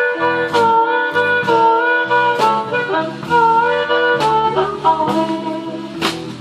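Live blues band playing an instrumental passage: a wind instrument plays a solo of long held notes that bend in pitch, over bass and guitar, with regular drum and cymbal hits.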